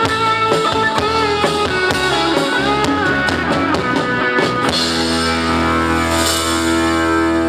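Live band music with electric guitar and drums: a melodic guitar line for the first half, then a sustained held chord with a cymbal wash from a little past the middle.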